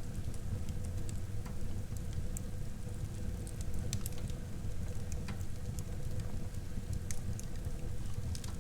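Wood fire burning in a fireplace: a steady low rumble of flames with scattered sharp crackles and pops, roughly one a second.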